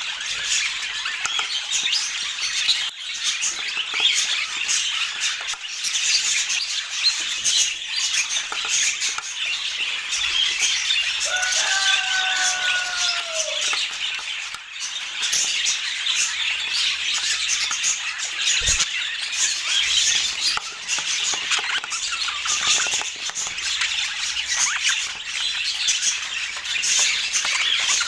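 Budgerigars chattering and squawking without a break, a dense stream of high chirps and screeches. About twelve seconds in, a lower, drawn-out call slides slightly in pitch for a second or two.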